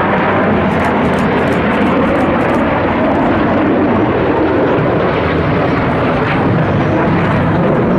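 Loud, steady jet engine noise from Blue Angels Boeing F/A-18 Hornet fighter jets in flight.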